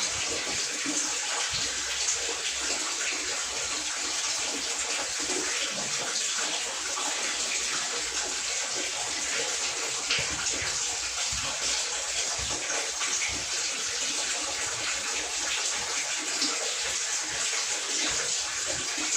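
Steady rush of running water, an even hiss with no breaks, with a few faint small clicks over it.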